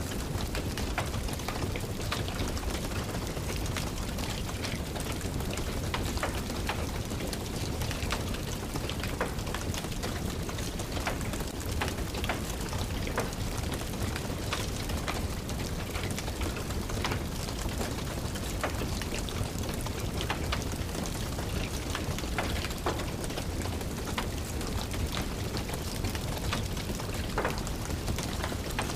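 Steady rain falling, with frequent small pops and crackles of a wood fire burning in a fireplace.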